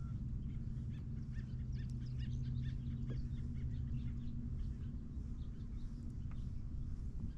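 Birds chirping, a rapid run of short calls for a few seconds, over a steady low hum.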